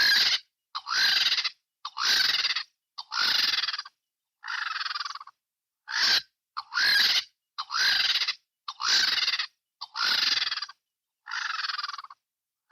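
Vulture (urubu) hissing: a series of about a dozen breathy hisses, each under a second long, coming roughly once a second with a short pause near the middle.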